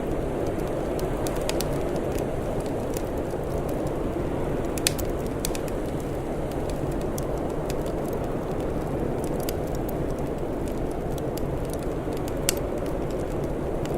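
Wood fire crackling, with irregular sharp pops, two of them louder (about five seconds in and near the end), over a steady low rushing background.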